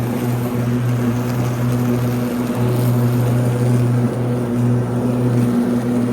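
Ryobi 80V electric riding lawn tractor mowing, its electric blade motors giving a steady low hum with a few higher tones over a haze of cutting and running noise, wavering slightly in level.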